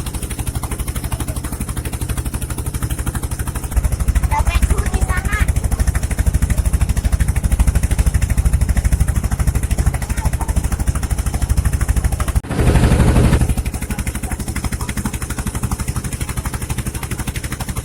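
Boat engine running steadily with a fast, even pulse, getting louder about four seconds in. A brief louder rush lasting about a second comes about two-thirds of the way through.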